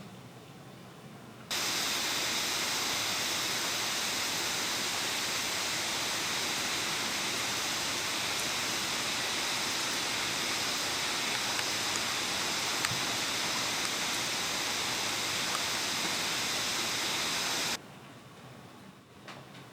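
Heavy rain falling in a steady downpour, a dense even rush. It starts abruptly about a second and a half in and cuts off abruptly near the end.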